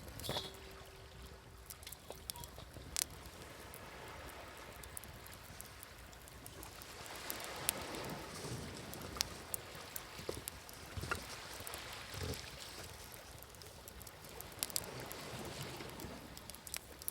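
Wood fire crackling, with scattered sharp pops, over sea waves washing in and receding in slow swells every few seconds.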